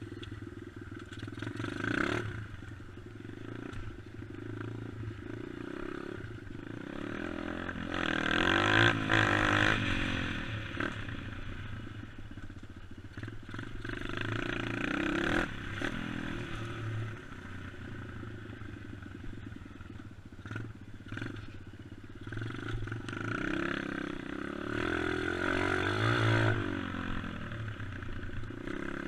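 Dirt bike engine running and revving, its pitch rising and falling as the throttle is opened and closed, with louder surges about nine seconds in and again near the end.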